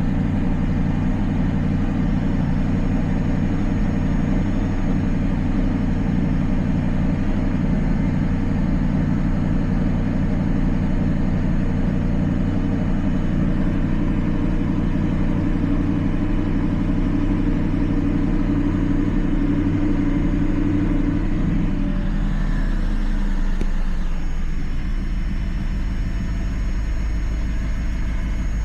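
Audi R8's 4.2-litre V8 idling steadily at a raised cold-start idle; about 22 seconds in, the idle drops and settles to a lower, deeper note as the engine comes off its fast idle.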